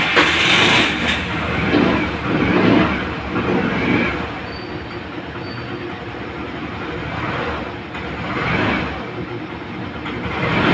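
Suzuki Burgman 125 scooter's single-cylinder four-stroke engine running after starting on a freshly fitted battery. It is loudest in the first second, then settles, with the revs rising and falling a few times.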